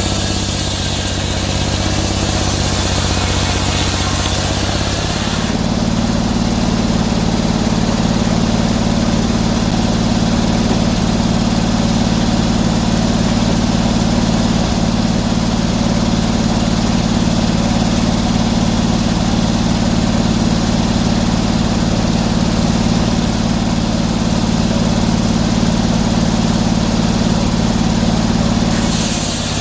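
Sawmill engine running steadily. About five seconds in it speeds up to a higher, steady pitch, and it drops back down just before the end.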